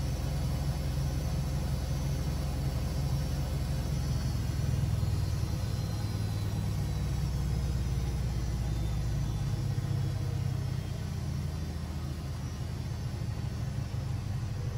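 Siemens Siwamat 6143 washing machine running, its drum and motor giving a steady low rumble with a faint motor whine above it. The rumble eases slightly about ten seconds in.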